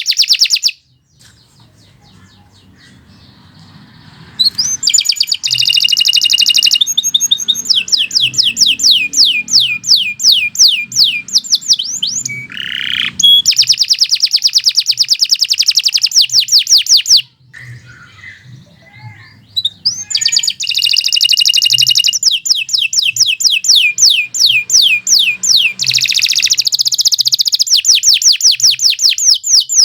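Domestic canary singing long, fast trills of rapidly repeated high notes in several bursts. The song pauses briefly near the start and again about halfway through before resuming.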